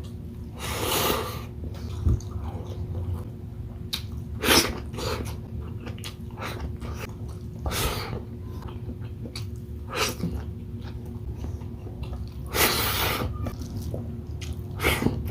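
Close-miked mukbang eating sounds, a person eating shrimp in coconut-milk sauce: bursts of chewing and slurping every few seconds over a steady low hum.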